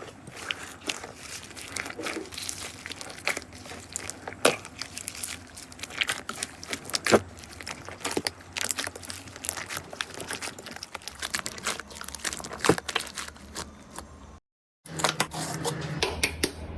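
Slime being squeezed and worked by hand, crackling with many sharp little pops and clicks. A little before the end it cuts to silence for a moment, then another clip starts with a low steady hum under it.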